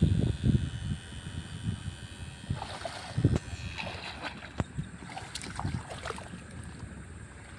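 Water sloshing and splashing with scattered knocks and rustling, in uneven bursts that are loudest near the start and about three seconds in, then fade.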